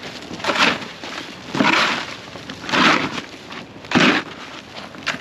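Ice-crusted snow crunching in regular strokes, about one a second, each a short sharp crunch.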